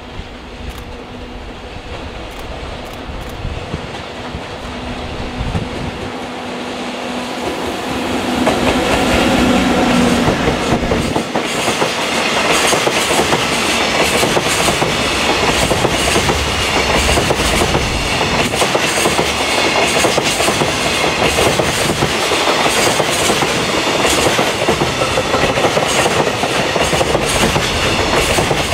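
An EF64-1000 series electric locomotive approaching with a steady hum, growing louder until it passes about eight to ten seconds in; then a long container freight train rolls by, its wheels clacking steadily and loudly.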